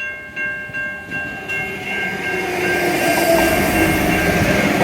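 Adelaide Metro diesel railcar running into the station, its wheel and rail noise swelling from about two seconds in until it is loud and steady. In the first seconds, high electronic tones repeat in short pulses above it.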